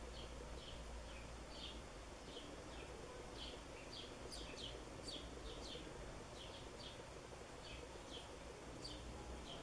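Faint bird chirping: short high chirps, about two a second, over a low steady hum.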